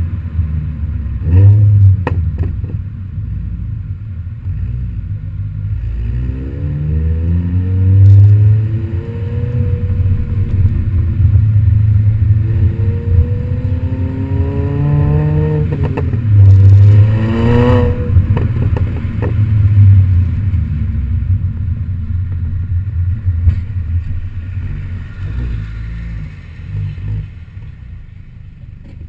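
Modified MINI Cooper Works GP exhaust and engine running under load, the pitch climbing through several rising revs and dropping back between them, with one sharp rise about two-thirds of the way in. It settles lower and quieter near the end.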